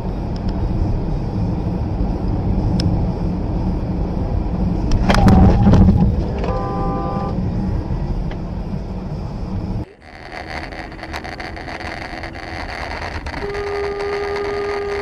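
Steady car road and engine noise, with a loud bang about five seconds in followed by a short car-horn blast. After an abrupt cut, different traffic noise with a long, steady car-horn blast near the end.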